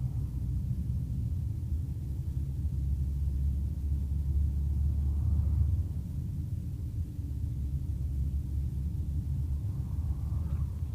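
Low, steady rumble of a car driving along, growing a little louder in the middle.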